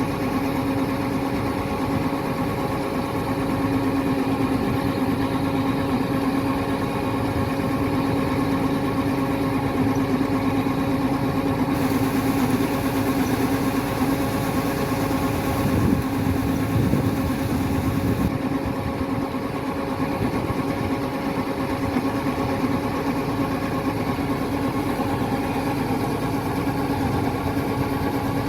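Kubota DC-105X combine harvester's diesel engine running at a steady speed, a constant hum with no change in pitch. A brighter hiss joins it for about six seconds near the middle.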